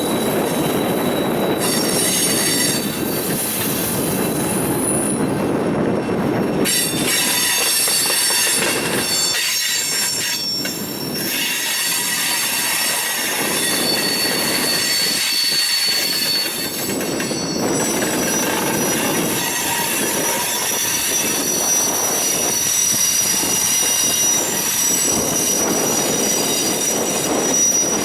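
Freight train cars rolling past, their wheel flanges squealing in several high, steady tones over the continuous rumble of the train.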